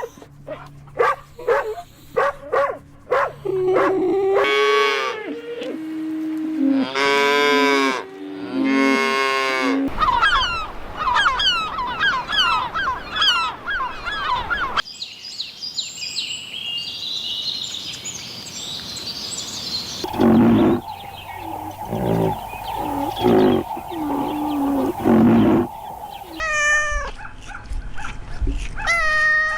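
A run of short farm-animal clips, one after another, with cattle mooing among them, other animal calls and quick bird chirps in between, and chickens clucking near the end.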